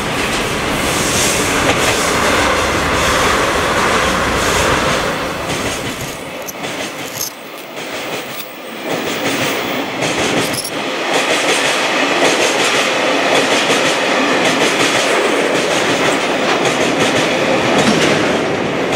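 Two DD51 diesel-hydraulic locomotives coupled together pass close by with their engines running, a heavy low rumble for the first several seconds. Then a long string of Taki tank wagons rolls past, wheels clacking rhythmically over the rail joints.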